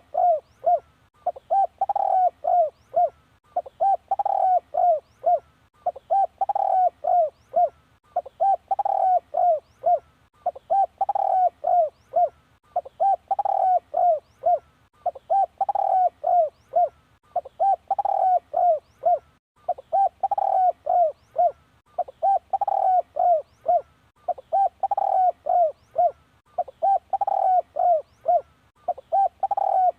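Spotted dove cooing: the same short phrase of several coos repeated about every two seconds.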